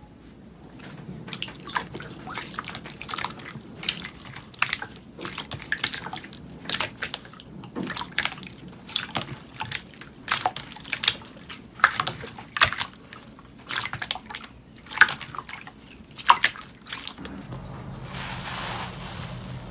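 Slime being squeezed and poked by hand, making irregular wet clicks and pops. Near the end the popping stops and a steadier soft rustling takes over.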